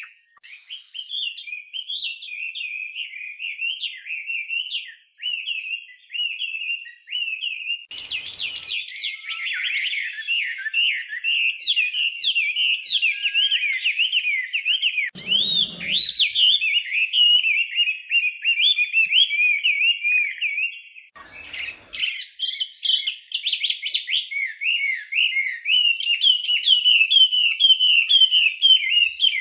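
Chinese hwamei, a laughingthrush, singing a long, nearly unbroken stream of rapid, varied notes, pausing briefly twice.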